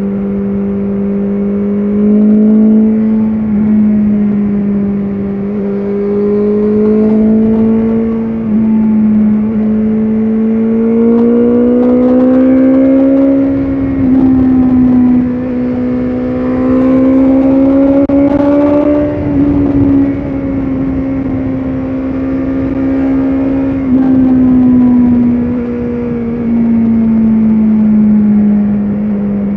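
BMW S1000RR's inline-four engine running under way, the throttle rolling on and off every few seconds through curves. Its pitch climbs slowly toward the middle and settles back down near the end, with a rush of wind noise in the middle.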